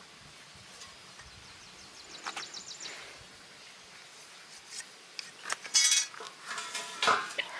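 Metal clinking and clanking: a few scattered knocks with a short ring, the loudest cluster about six seconds in and another hit a second later, typical of iron bars being handled and set against one another.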